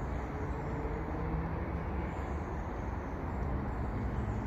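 Steady low rumble of road traffic with a faint engine hum, and no distinct knocks.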